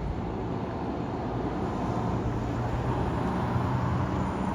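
Road vehicle engine and road noise: a steady low rumble that grows slightly louder.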